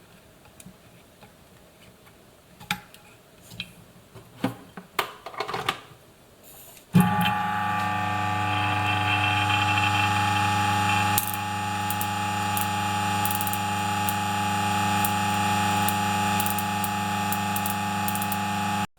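A few light clicks, then about seven seconds in the DF54 coffee grinder's motor starts and runs with a steady hum for around twelve seconds before stopping abruptly near the end.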